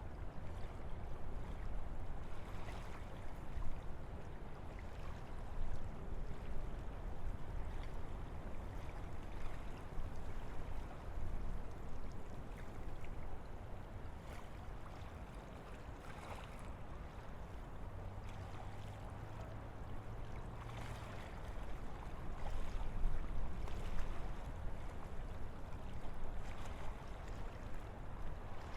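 Wind blowing through forest trees: a steady rushing with a low rumble, swelling and easing in gentle gusts, a little stronger near the end.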